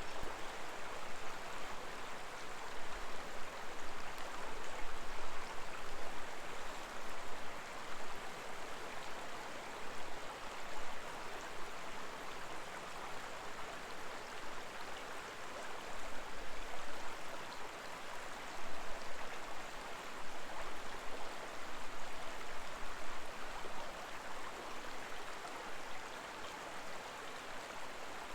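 Koma River's babbling shallow water: a steady rush of flowing river water that swells and eases slightly from moment to moment.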